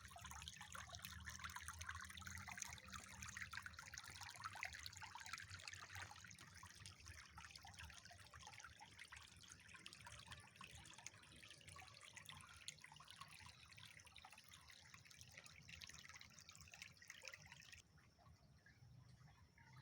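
Faint trickling, dripping water, a steady crackly patter that drops away suddenly near the end.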